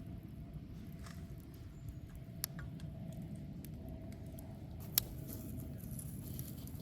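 Wood bonfire burning: a steady low rumble of the flames with sharp crackles and pops from the burning wood, the loudest about five seconds in, followed by a brief hiss.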